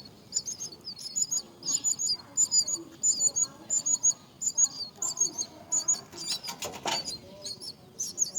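Birds at a nest chirping over and over, short high chirps two or three a second, with a short rapid rattle of clicks about six and a half seconds in.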